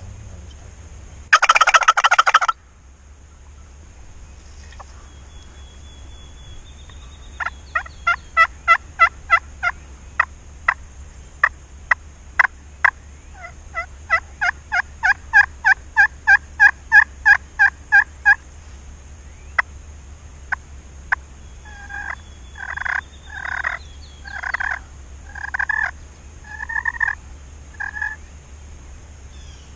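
A wild turkey gobbles once, loud and rattling, about two seconds in. Then comes a long run of quick, sharp turkey clucks, and near the end a string of about seven yelps.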